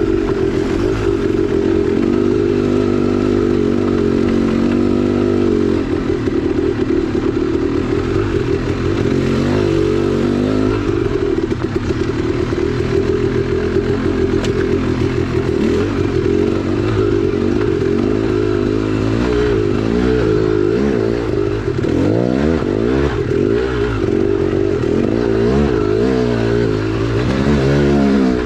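2010 KTM 300XC-W two-stroke single-cylinder dirt bike engine running continuously while riding, its pitch rising and falling repeatedly with the throttle in the second half.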